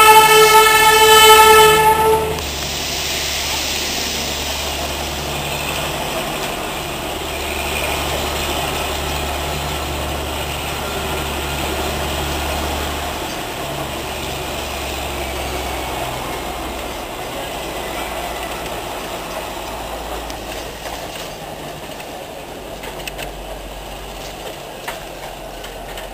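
Darjeeling Himalayan Railway narrow-gauge toy train sounding its whistle, one loud steady tone that cuts off about two seconds in, then the train running along with a steady, even running noise, heard from on board.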